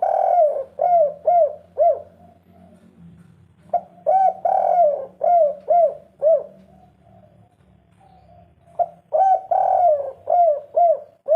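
Spotted dove (tekukur) cooing: three song phrases, each a quick run of rising-and-falling coos, about four seconds apart.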